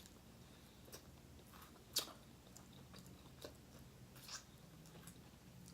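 Faint eating sounds from seafood: quiet chewing with scattered small clicks and crunches, one sharper crunch about two seconds in.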